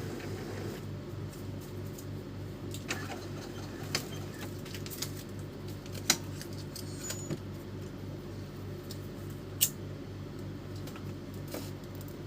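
Epson L310 inkjet printer's mechanism running through its power-on cycle: a steady, evenly pulsing motor hum with scattered sharp clicks from the print-head carriage and paper-feed gears. The head still moves, which the technician takes to mean the fault is not in the firmware.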